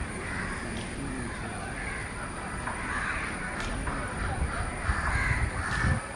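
Birds calling repeatedly over a low rumble that swells near the end.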